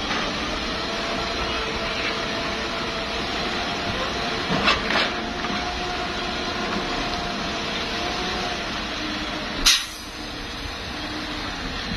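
Hino 500 heavy diesel truck running with a loud, steady mechanical noise. Two short sharp bursts cut through it, about five seconds in and again near ten seconds, the second the loudest.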